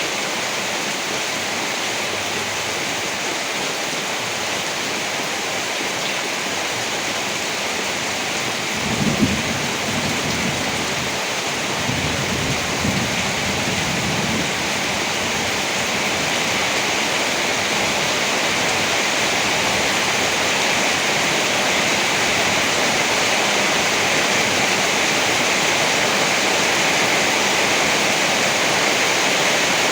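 Steady heavy rain, with thunder: a sharp crack about nine seconds in, then low rolling rumbles a few seconds later.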